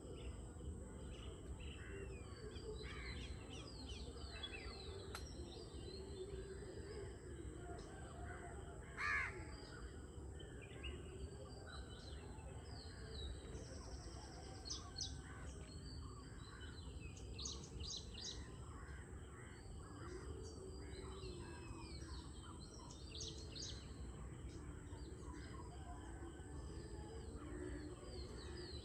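Several birds chirping and calling, with one louder call about nine seconds in, over a steady low rumble.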